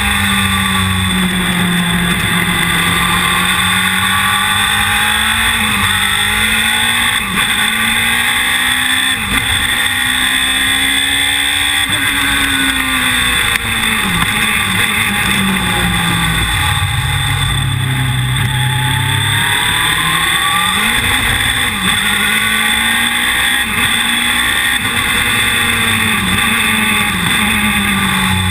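Knightsport Stratos replica's engine heard on board under hard driving, its pitch climbing and falling repeatedly as it revs up through the gears, with sudden drops at each gear change and easing off into corners.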